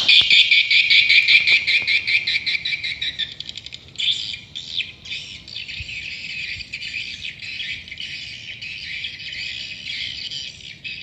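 Swiftlets twittering: dense, high, buzzy chirps. The first three seconds are a fast, even pulsing; after about four seconds the chirps turn quieter and more irregular.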